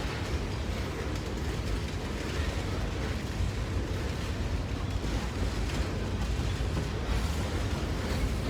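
Norfolk Southern freight train rolling past with a steady low rumble.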